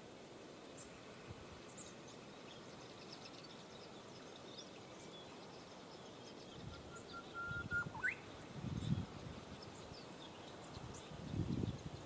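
Faint, scattered chirps of small birds, with one drawn-out whistle that holds its pitch and then jumps higher about eight seconds in. Low rumbles come in the second half.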